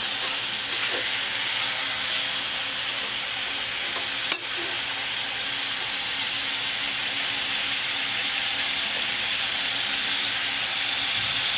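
Pork chunks and chopped red onions sizzling steadily in an aluminium pot as they are stirred with a metal spoon, the pork being seared until it turns white. A single sharp click comes about four seconds in.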